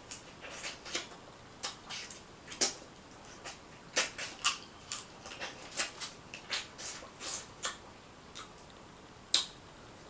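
Irregular clicks and crackles of crab shell being cracked and picked apart by hand for the meat, with a sharper crack about nine seconds in.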